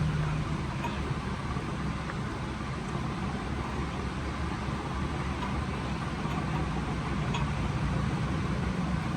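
Steady low rumble of running motor vehicles, with a few faint clicks.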